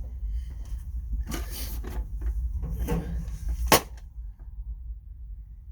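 Metal tool box drawers and rails being handled: a run of scraping and clanking, ending in a sharp metallic knock about three and a half seconds in. A steady low rumble sits underneath.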